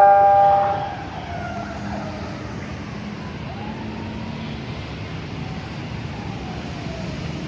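The last notes of a station announcement chime ring out in the first second. Then comes a steady rumble of a passenger train entering the station, with a few faint gliding whine-like tones over it.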